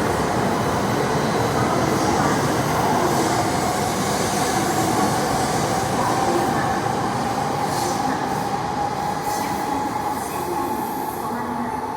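JR East E7-series Shinkansen train pulling out and gathering speed, its running noise steady and loud with a motor whine that slowly rises in pitch as it accelerates, easing off slightly near the end.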